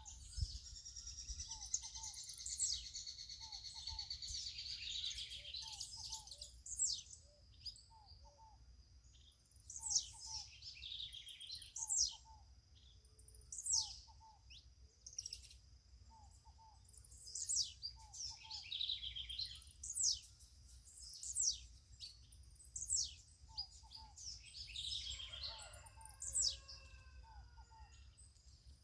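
Several birds calling and singing: sharp, high, down-slurred notes every second or two, a long twittering run at the start, and a lower double note repeating steadily about every one and a half seconds.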